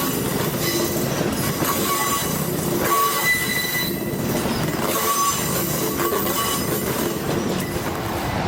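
Seino Railway freight train rolling past: steady rumble and clatter of wagon wheels on the rails, with short wheel squeals coming and going several times.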